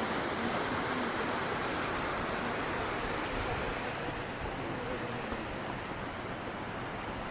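Steady rush of a large waterfall, an even wall of falling water.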